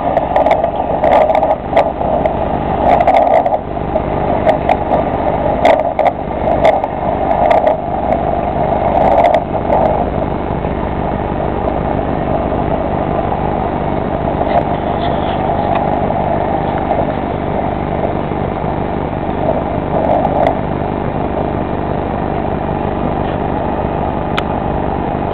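Robinson R44 helicopter running steadily: its piston engine and rotor, with a few sharp clicks in the first ten seconds.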